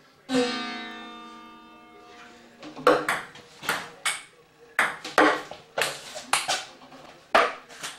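A single pitched note rings out and fades over about two seconds. Then a table tennis ball is hit back and forth in a rally: about nine sharp, irregularly spaced clicks of the ball on the bats and table.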